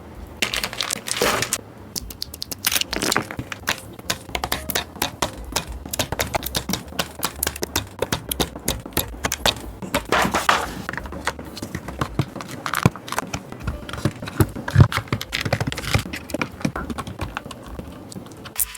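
Many irregular small plastic clicks, snaps and taps, with a few short scrapes, from a DK68 custom mechanical keyboard being assembled: Gateron Milky Pro switches and PBT keycaps pressed into place.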